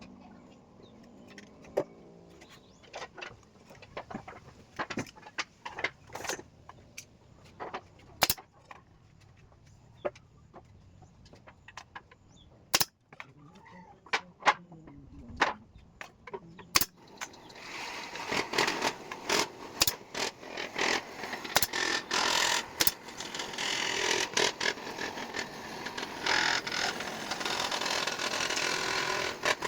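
Bird cage being assembled by hand: scattered clicks and knocks of wooden or bamboo cage parts being handled and fitted. Past the halfway point the work gets louder and busier, with dense knocking and rasping.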